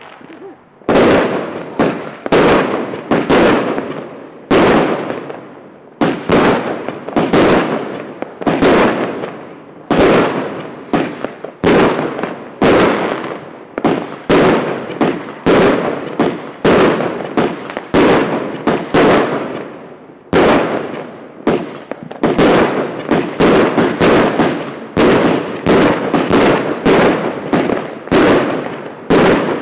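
Fireworks going off in rapid succession: a long string of loud bangs, one to two a second, each with a short trailing decay, starting about a second in.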